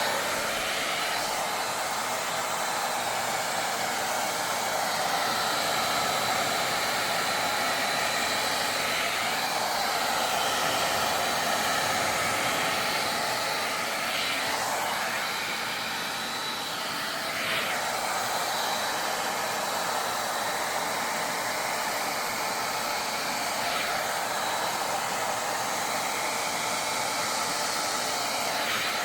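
Hot-air hair dryer brush running steadily, a constant rush of blown air with a faint high whine over it.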